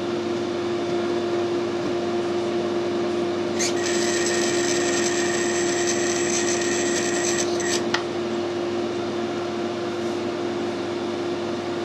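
Metal lathe running with a steady motor hum while screw-cutting a 1 mm pitch thread on a brass part. About a third of the way in, a high-pitched ringing whine starts as the threading tool cuts, lasts about four seconds, and stops abruptly with a click.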